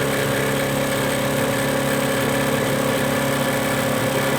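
Electric fuel pump of a temporary fuel rig running with a steady buzz. Its hoses are hooked up the wrong way round, so it is drawing gas back out of the carburetor rather than feeding it.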